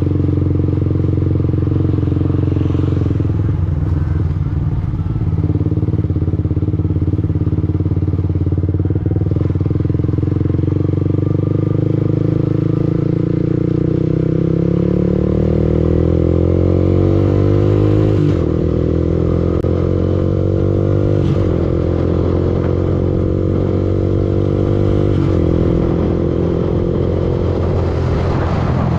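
Yamaha R15 V2's single-cylinder 150 cc four-stroke engine running under a riding motorcycle, its pitch climbing steadily as it accelerates in the middle and dropping suddenly three times in the second half at gear changes.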